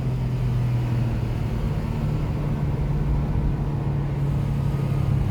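Porsche 997's flat-six engine running under steady throttle while the car drives, heard from inside the cabin: a steady drone that holds nearly the same pitch throughout.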